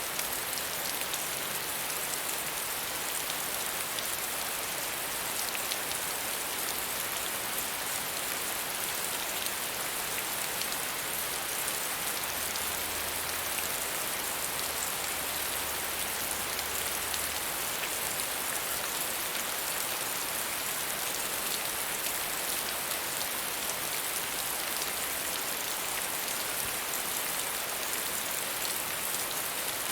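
Steady medium rainfall, an even hiss of drops pattering on surfaces with fine individual drop ticks.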